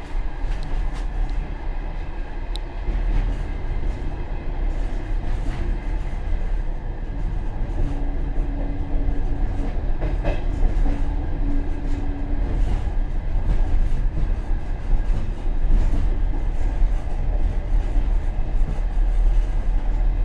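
Passenger railway carriage rolling along the track, a steady rumble of wheels on rails with a few faint clicks over rail joints, heard from inside the rear vestibule of the last car. A steady hum joins in for a few seconds in the middle.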